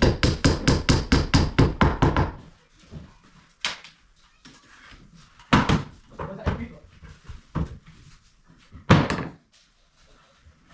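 A fast run of sharp knocks, about six or seven a second for two seconds, then a few single knocks and bangs spaced a second or two apart.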